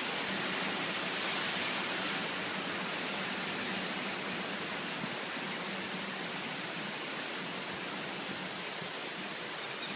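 Heavy monsoon rain falling steadily in a dense, even hiss, easing slightly after the first few seconds.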